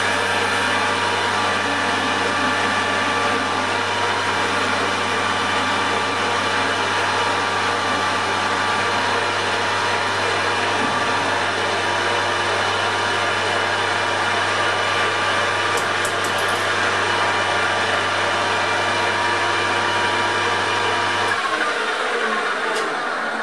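Metal lathe running, a steady motor hum with gear whine. It is switched off about 21 seconds in and winds down.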